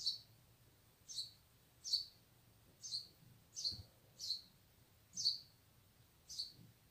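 A bird chirping over and over, short falling chirps coming a little under a second apart.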